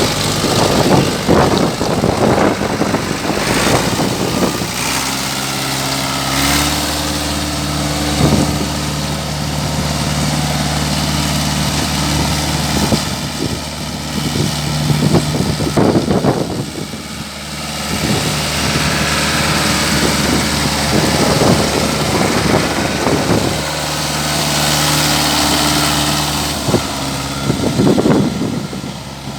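Ford 6610 tractor's four-cylinder diesel engine running at idle with a steady hum, its speed stepping up slightly about six seconds in. Intermittent bursts of rushing noise come and go over it.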